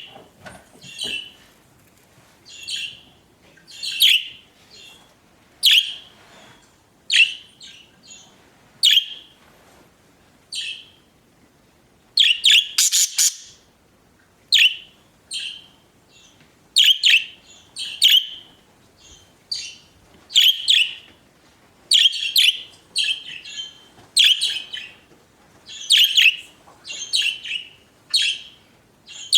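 Pet budgerigars chirping and chattering in short bursts about once a second, with a quick run of calls about 12 seconds in.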